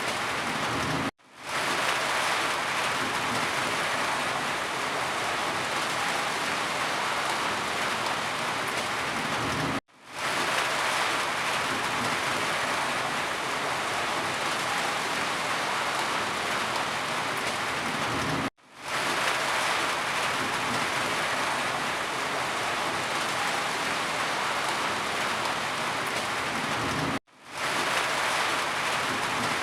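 Steady, heavy rain falling. The sound cuts out to silence four times, about every nine seconds, and fades back in each time, as a short rain recording loops.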